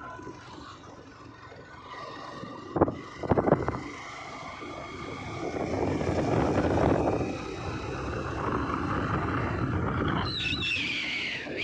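A vehicle driving on a road, with steady running noise, a few sharp knocks about three seconds in, and a brief high squeal near the end.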